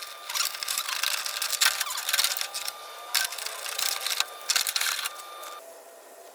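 Rapid irregular clicking and scratchy scraping from work on a dirt bike's chain, stopping about five seconds in.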